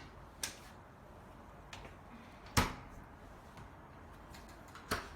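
A few sharp clicks and knocks of refrigerator fittings being handled, the loudest about two and a half seconds in and another near the end.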